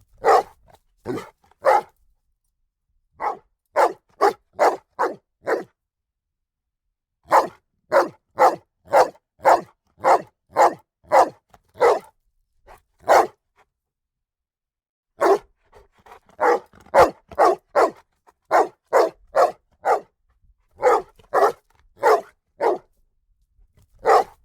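A dog barking in runs of several barks at about two barks a second, with short pauses between the runs.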